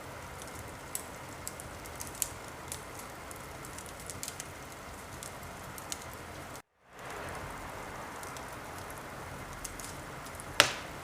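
Wood fire burning in a fireplace: a steady hiss with scattered crackles and pops, one loud pop near the end. The sound cuts out for a moment about two-thirds of the way through.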